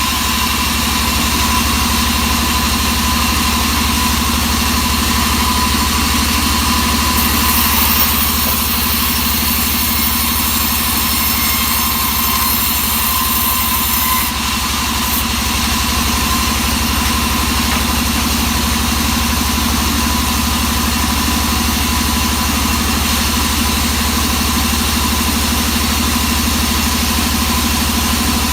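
Engine-driven wood saw running steadily, with a brighter high hiss for several seconds partway through.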